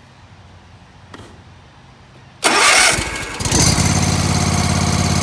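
Kawasaki 23 hp V-twin engine on a Hustler Raptor zero-turn mower cranking on the electric starter about two and a half seconds in, then catching and settling into a steady idle. The starter engages after its stuck solenoid was knocked free with a whack.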